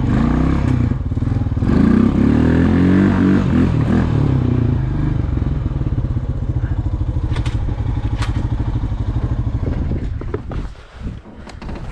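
ATV engine running under load while plowing snow. It pulls harder about two seconds in, with a couple of sharp clatters midway, and drops away abruptly near the end.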